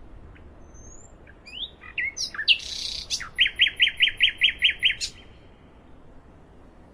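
Nightingale song: a few scattered whistled and slurred notes, a short buzzy phrase, then a fast run of about ten repeated falling notes, about seven a second, before it trails off over a steady hiss.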